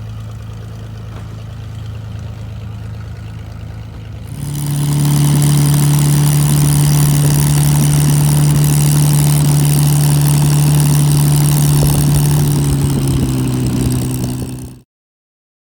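Aircraft engine running at a steady pitch. About four seconds in it becomes much louder and holds steady, then it cuts off abruptly near the end.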